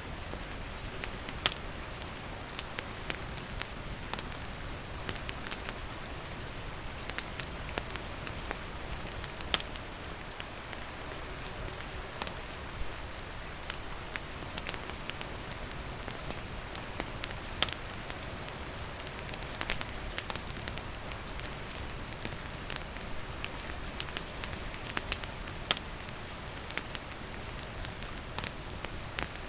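Steady rain hissing on leaves and a roof, with a wood campfire crackling and popping in scattered sharp snaps.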